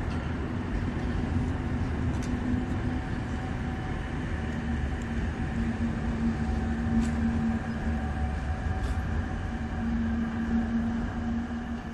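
Metronom double-deck regional train with an electric locomotive rolling past over a steel bridge: a steady rumble of wheels on rails with a continuous low hum, and a few faint clicks.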